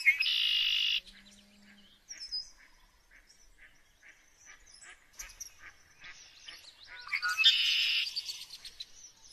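Many birds chirping, with two loud harsh squawks about a second long, one at the start and another about seven seconds in.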